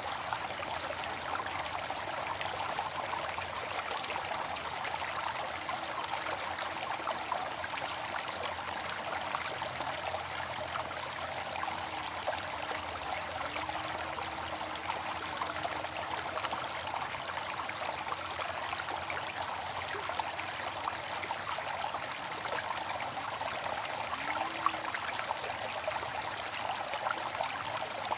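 Water fountain splashing and trickling in a steady, unbroken stream.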